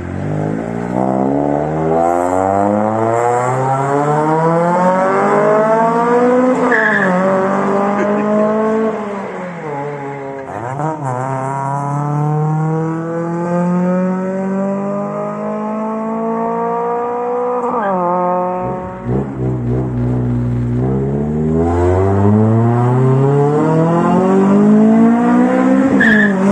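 Honda Civic's naturally aspirated VTEC four-cylinder accelerating hard through the gears, its pitch climbing in long pulls and dropping sharply at each upshift, several times over.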